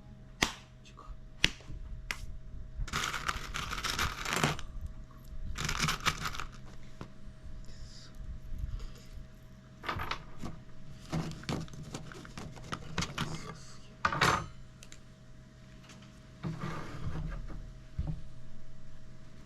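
DIY work noises: sharp clicks and knocks, and several short scraping or rustling stretches from materials being handled. A faint steady hum runs underneath.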